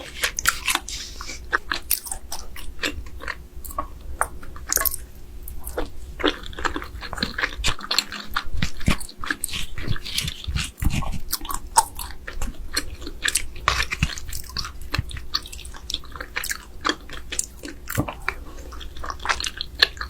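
Close-miked eating of raw marinated crab: wet chewing and crunching bites, heard as a dense, irregular run of small clicks and crackles.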